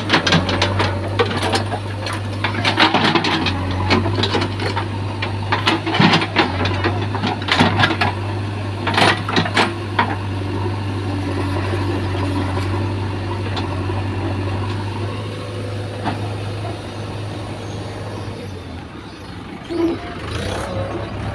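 Diesel engine of a JCB 3DX backhoe loader running steadily, with repeated knocks and clanks of the working machine over the first half, then fewer.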